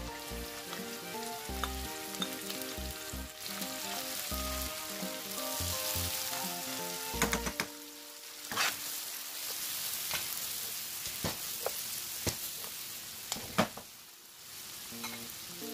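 Sliced pork belly sizzling steadily in a frying pan as chopped green onions are stirred in, with several sharp knocks of a utensil against the pan in the second half. Light background music plays through roughly the first half and comes back near the end.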